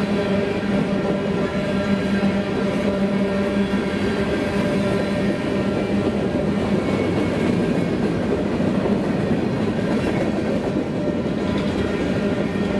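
Covered hopper cars of a Union Pacific freight train rolling past: a steady rumble of steel wheels on rail, with a steady low hum underneath.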